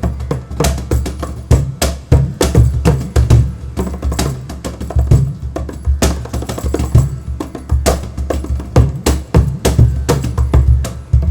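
A hand-percussion duo on Cuban and Indian drums (cajón, bongos, tabla, kanjira) plays a fast, dense rhythm. Sharp slaps come in quick succession over deep, booming bass strokes.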